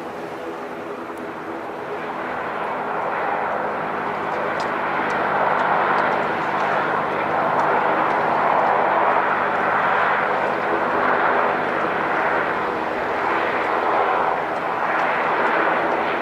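Passenger aircraft engines, building up over the first few seconds and then staying loud with slow swells, over a steady hum.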